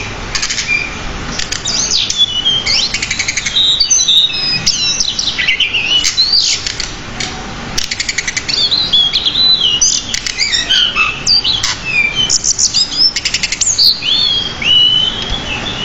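Pied bushchat singing a continuous, fast, varied song of chirps, gliding whistles and quick rattling trills, packed with phrases copied from other birds.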